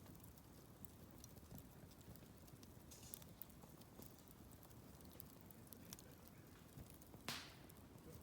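Wood campfire crackling faintly, with scattered small pops and one louder hissing crack about seven seconds in.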